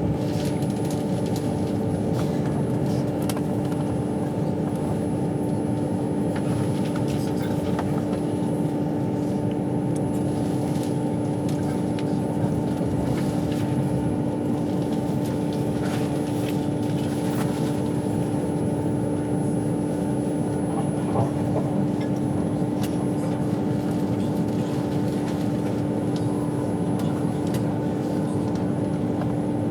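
Steady running noise inside a moving passenger train: a continuous low rumble with a steady hum and occasional faint ticks.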